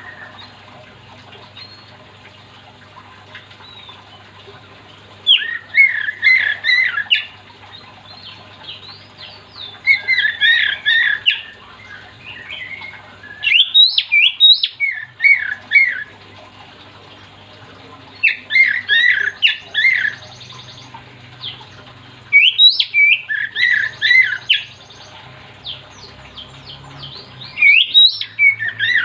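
Oriental magpie-robin (kacer) singing loudly in about six bursts of quick, varied whistled phrases, each lasting about two seconds with short pauses between them. A faint steady low hum runs underneath.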